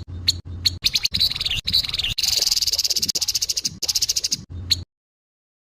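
Grey-headed babbler giving its harsh, rough calls: scattered sharp clicks, then a fast dry rattle for a couple of seconds in the middle, stopping abruptly about five seconds in.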